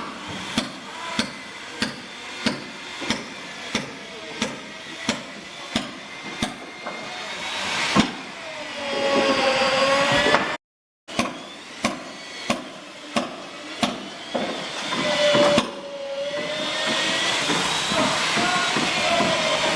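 Hammer blows on wood, about one and a half strikes a second, during wooden boat building. After a short break and a few more blows, a power tool starts and runs steadily with a pitch that wavers.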